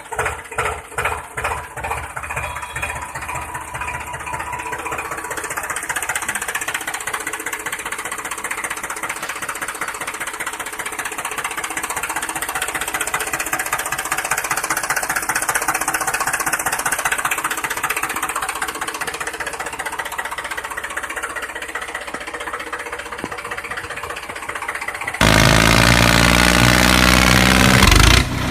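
Engine sound of a mini tractor, pulsing at first and then running evenly. About 25 seconds in it cuts abruptly to a louder, different engine sound.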